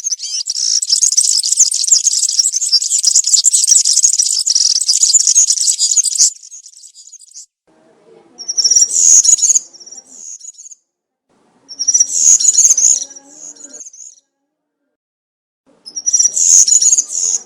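European serin singing: a long, rapid, high-pitched song for about six seconds, then three shorter phrases a few seconds apart.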